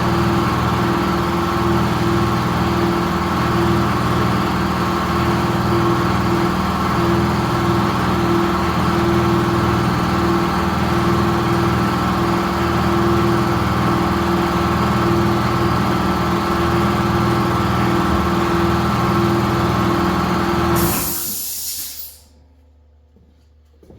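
A shop air compressor's motor runs steadily at full load. About 21 seconds in it cuts out with a short sharp hiss of released air, the sign of the compressor reaching its cut-off pressure, and it spins down to quiet.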